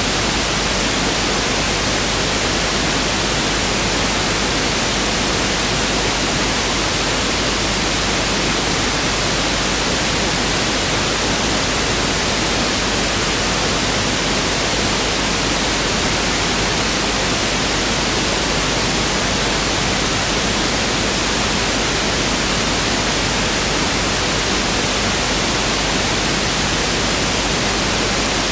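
Pink noise test signal: a steady, unchanging hiss, spread evenly with equal energy per octave, so it sounds fuller and deeper than white noise.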